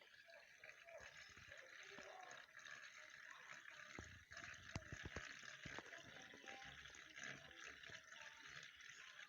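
Faint rain with water trickling and dripping, and a cluster of light taps around the middle.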